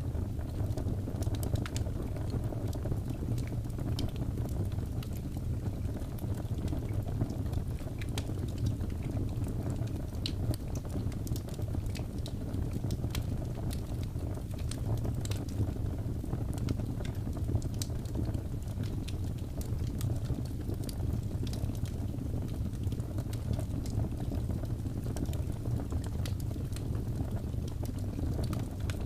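Wood fire crackling in a fireplace: a steady low rumble of flames with many sharp little pops and snaps at irregular intervals.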